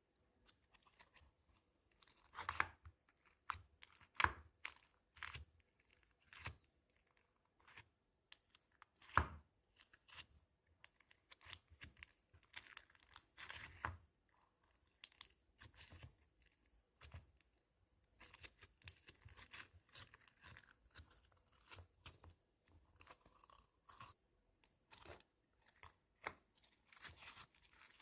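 Crunchy slime being squeezed and pressed by hand, giving irregular crackles and pops, with the loudest crackles about two, four and nine seconds in.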